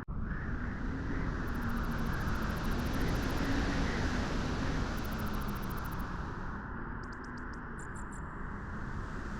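Steady wind blowing at a beach, swelling and easing a little, with a low hum running under it. The sound cuts out for an instant right at the start.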